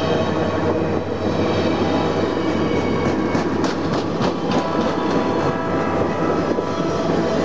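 Passenger train cars rolling past close by: a steady rumble of steel wheels on rail, with a run of clacks as the trucks cross rail joints about three to four and a half seconds in.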